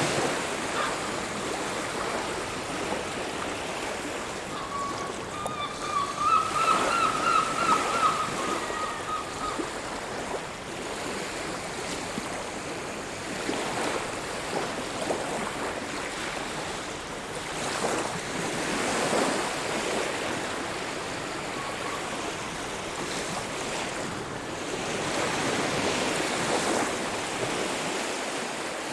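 Sea waves washing onto a beach, with surges of surf every several seconds over a steady wash. About five seconds in, a wavering, high-pitched call with overtones rises over the surf and lasts around four seconds.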